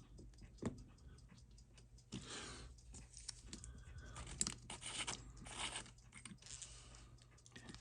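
Faint crinkling and rustling of a plastic protective sheet being handled, with scattered small clicks and scrapes.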